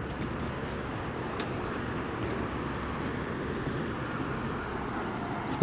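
Steady outdoor background noise, an even rush without any distinct event, with a few faint clicks.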